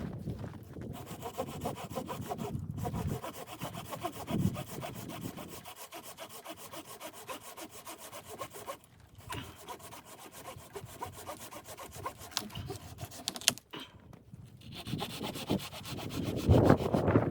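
Hand saw cutting through wood in a long run of quick rasping strokes, broken by a few short pauses.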